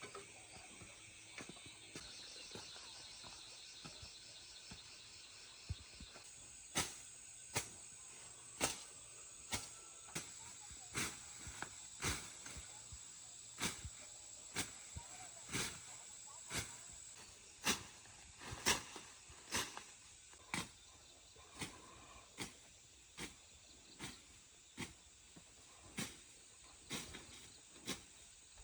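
Sharp knocks of a hand tool striking wood or bamboo, repeated roughly once a second from about six seconds in, over steady high-pitched insect calls.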